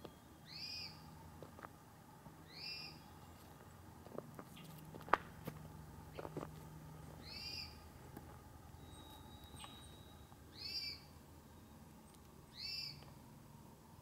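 A bird repeating a single short, high call that rises and falls, five times at about two-second intervals. A sharp click about five seconds in is the loudest single sound.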